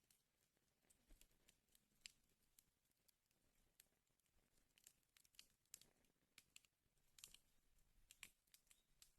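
Wood fire crackling faintly: irregular snaps and pops from the burning wood, a few sharper ones standing out among the rest.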